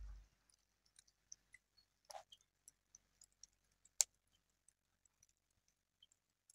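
Faint, scattered clicks and small pops against near silence, with a brief cluster about two seconds in and one sharper click about four seconds in.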